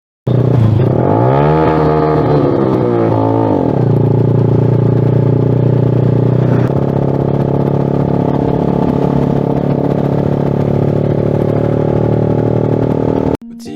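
Suzuki Smash motorcycle's single-cylinder four-stroke engine through a Creed aftermarket exhaust, loud. It is revved up and back down twice, then runs steadily at one speed, starting and cutting off abruptly.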